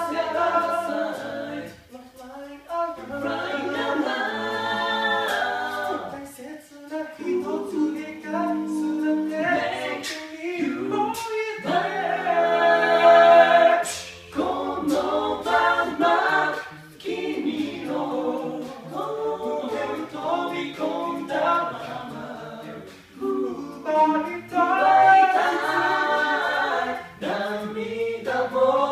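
An a cappella vocal group singing in close harmony, with a low sung bass line under the chords and sharp percussive clicks on top. A loud chord is held for about two seconds around the middle.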